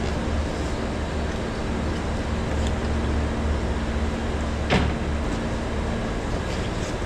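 Steady low machine hum, with a single sharp knock about two-thirds of the way through.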